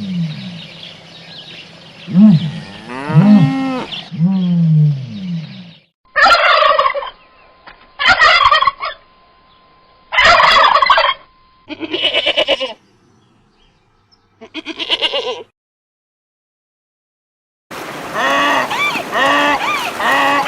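Turkeys gobbling: a run of separate calls, including three loud, rattling gobbles about a second each around the middle, followed by two quieter ones. A different animal call starts near the end.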